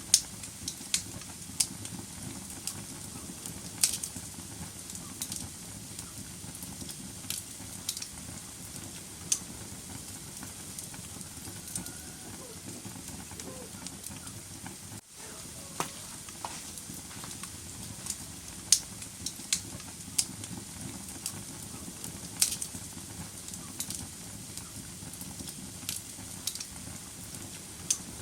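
Wood fire in a fireplace crackling: a steady low hiss of burning logs with irregular sharp pops and snaps every second or so. There is a brief gap about halfway through.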